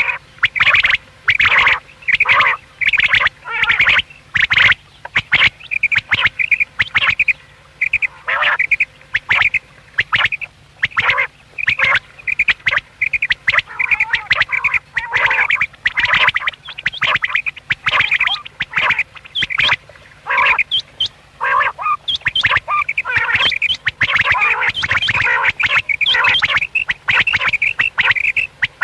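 Common quail calling in quick, repeated short calls, several a second and sometimes overlapping.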